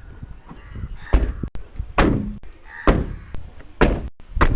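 Car doors being slammed shut one after another: about five heavy thuds, roughly a second apart.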